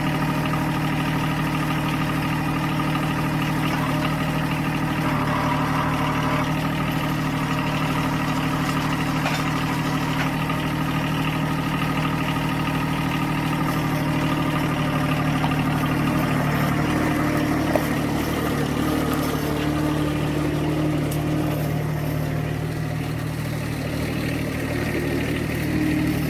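John Deere 1023E compact tractor's three-cylinder diesel engine running steadily, its note shifting a little about two thirds of the way through.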